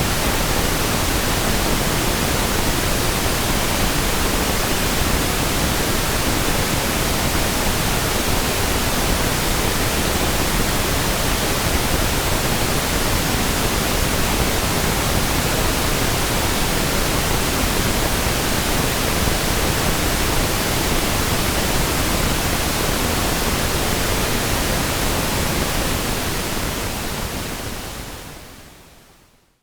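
Pink noise test signal: a steady, even hiss spread across the whole audible range, used for checking a system's frequency response. It fades out over the last couple of seconds.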